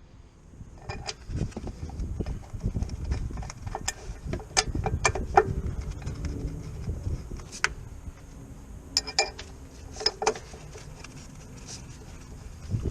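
Irregular metallic clinks and knocks, a dozen or so, some ringing briefly, over a low rumble: metal tools and parts being handled.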